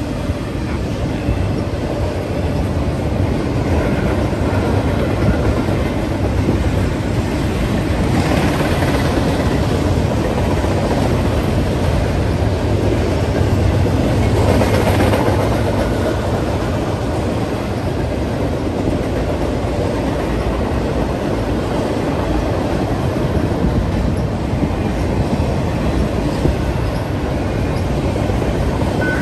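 Double-stack intermodal container freight train rolling past: a steady rumble and clatter of steel wheels on rail, swelling briefly about eight and again about fifteen seconds in.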